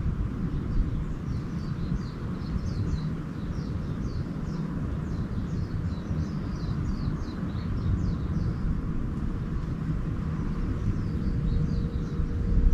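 Small birds twittering in quick, short chirps in a persimmon orchard, in runs through the first two-thirds and again near the end, over a steady low rumble.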